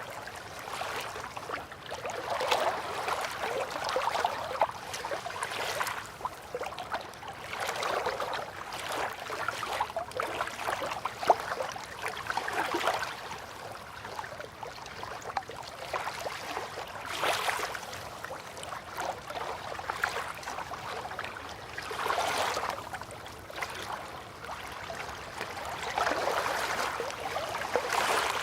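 River water lapping and trickling at the bank, a gentle splashing that swells and fades every few seconds.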